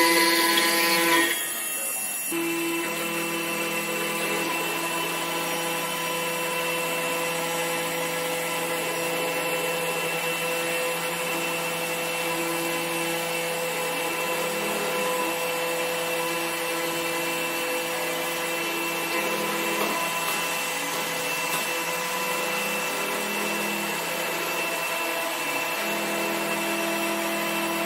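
CNC router spindle whining at a steady pitch as it cuts into wood, with a rough cutting noise under the whine. The sound shifts briefly about a second or two in, then runs steadily.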